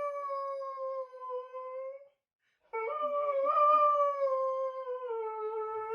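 Dog howling: two long, drawn-out howls, each sliding slowly down in pitch, with a short break between them.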